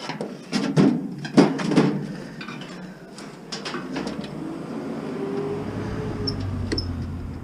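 Handling of scrap appliance parts and wiring: several sharp knocks and rattles in the first two seconds, then a steady low hum that grows louder toward the end.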